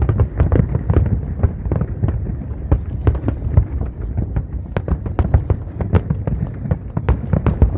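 Fireworks going off in rapid, overlapping bursts: many sharp pops and crackles, several a second, over a steady low booming.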